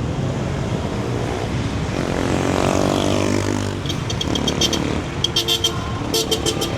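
City street traffic, a steady mix of car and motorcycle engines. One vehicle passes close about two seconds in, its engine note falling as it goes by. From about four seconds there are short runs of rapid, high-pitched ticking.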